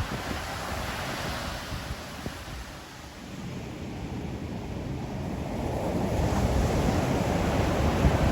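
Ocean surf washing on the shore. The wash eases about three seconds in, then a wave swells and grows louder toward the end.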